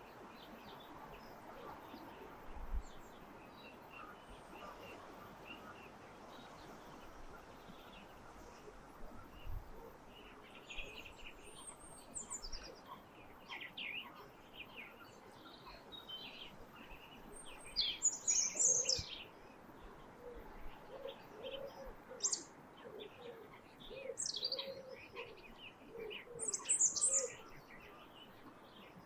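Winter dawn chorus: several small songbirds chirping and trilling, sparse at first and busier from about ten seconds in. In the second half a series of lower repeated calls runs beneath the high chirps.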